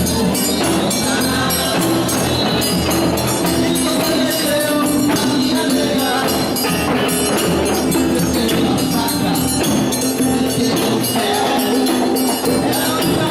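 Live band music playing loudly, with a steady, quick beat of jangling hand percussion over sustained pitched notes.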